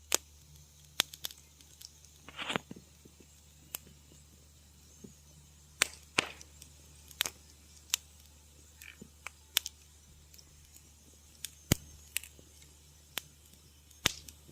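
Wood fire crackling in a fireplace: sharp, irregular pops and snaps, with a brief hiss about two and a half seconds in, over a faint low steady rumble.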